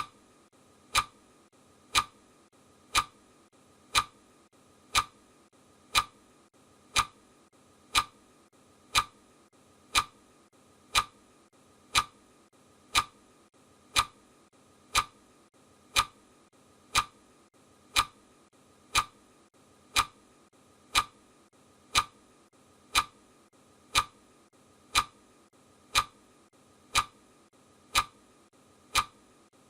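Clock ticking sound effect, a sharp tick once every second, evenly and steadily, over a faint hiss.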